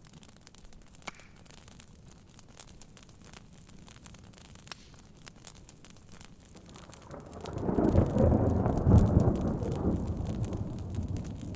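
Rain patter with occasional faint crackling pops, then about seven seconds in a deep thunder rumble swells up, peaks and slowly rolls away.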